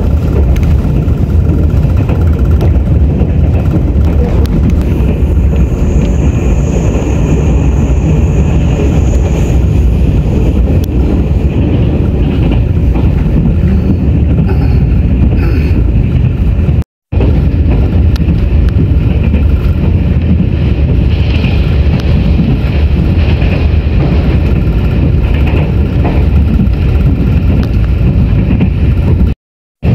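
Steady loud rumble of an express train running at speed, heard from inside the passenger car, with a faint high whine about six to ten seconds in. The sound cuts out abruptly and briefly twice.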